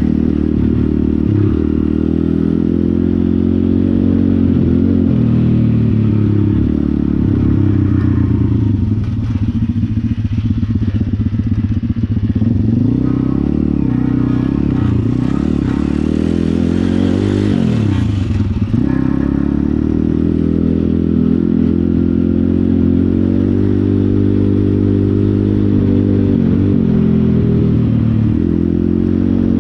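Pit bike engine running. Its revs rise and fall a few times, with steadier stretches in between.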